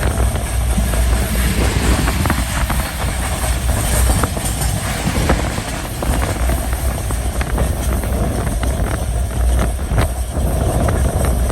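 Passenger train running on the rails: a steady low rumble with irregular sharp clicks and knocks from the wheels over the track.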